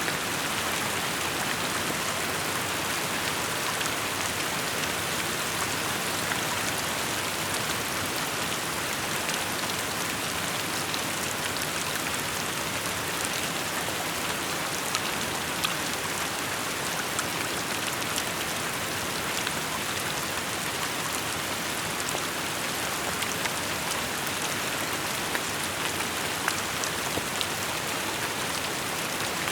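Steady rainfall with scattered drop ticks standing out from the even hiss.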